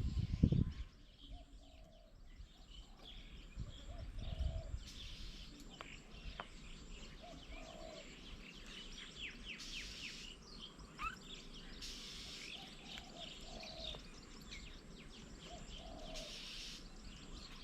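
Outdoor birdsong: many birds chirping with quick high falling notes, over a low call repeated every few seconds. A brief low rumble comes at the very start.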